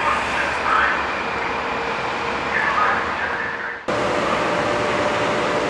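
Steady rumble of a Metro-North M8 electric train running into the station. After an abrupt cut about four seconds in, the even hum of an Amtrak electric locomotive standing at the platform, with a steady tone in it.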